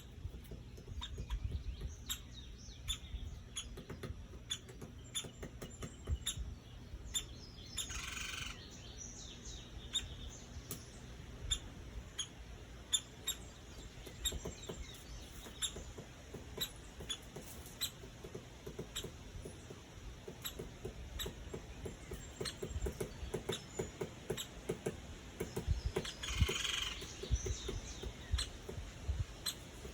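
Woodpecker pecking: many irregular sharp taps, with two short noisy bursts, one about eight seconds in and one near the end.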